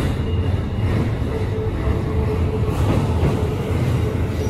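Keikyu N1000 series electric train running across a steel truss railway bridge: a steady, heavy rumble of wheels on the rails.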